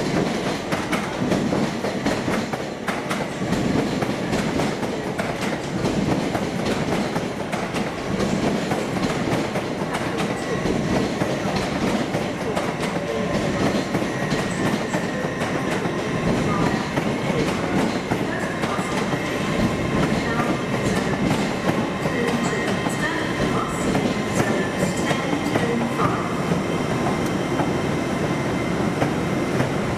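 Passenger train running along the rails, with a steady rumble and many small clicks from the wheels.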